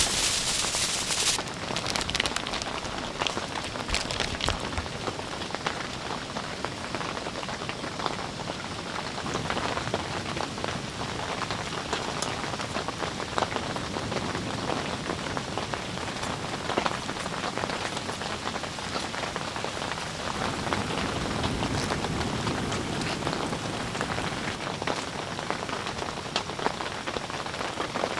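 Steady rain falling on a surface: a constant hiss full of small drop ticks.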